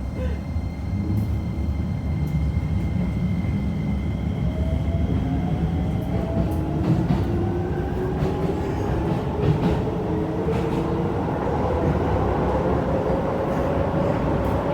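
Keisei 3000 series EMU accelerating, heard from inside the car: its Toyo IGBT VVVF inverter and three-phase induction traction motors whine, the tones rising steadily in pitch from about four seconds in, over a low running rumble with wheel clicks. A steady high tone fades out about six seconds in; this set was making an unusual high-pitched noise while running, cause unknown.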